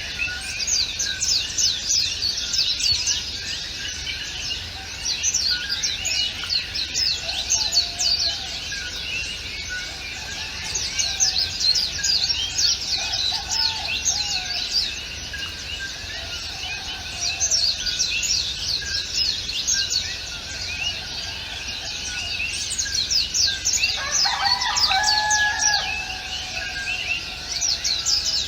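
A chorus of many small birds chirping and twittering continuously, with a longer, lower held call near the end.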